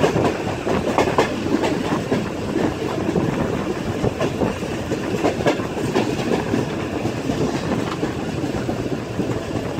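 Train running along the track: a steady rumble of wheels on rails broken by irregular clacks over the rail joints.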